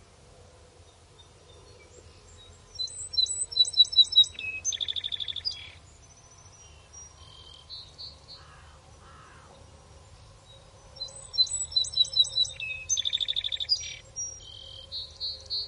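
A songbird singing two similar phrases about eight seconds apart, each a quick run of high chirps leading into a fast buzzy trill, over a faint low rumble.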